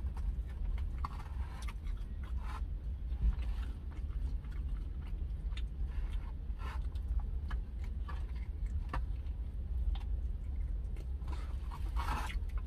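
Close-up chewing and mouth sounds of someone eating smoked chicken wings, with short scattered smacks, over a steady low hum.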